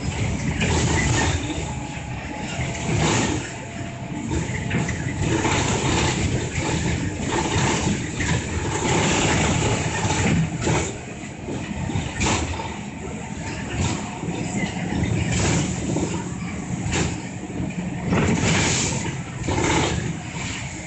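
Inside a city bus while it is being driven: the diesel engine runs under a steady road rumble, with frequent short knocks and rattles from the cabin.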